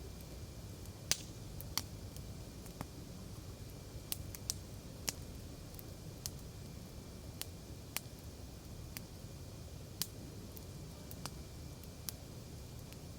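Wood campfire crackling: irregular sharp snaps and pops from the burning wood, the loudest about a second in and again about ten seconds in, over a low steady hiss of the flames.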